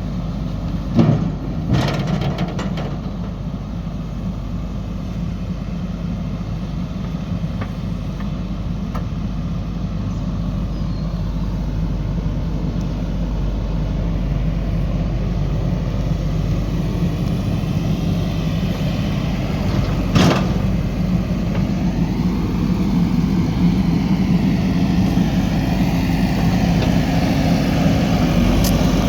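JCB 3DX backhoe loader's diesel engine running steadily, slowly building toward the end, with sharp knocks about a second in, again shortly after, and once more about two-thirds of the way through.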